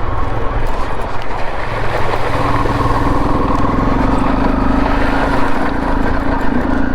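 Honda CRF 250L single-cylinder motorcycle engine running steadily under way, with a held engine tone settling in about two and a half seconds in.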